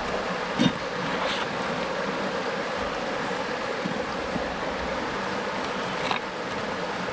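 Creek water running steadily, with a few short sharp knocks, the loudest about half a second in and another near the end.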